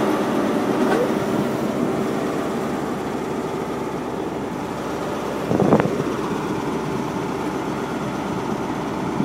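A train running at a station platform: a steady rumble of engine and wheels, with one brief louder knock about halfway through.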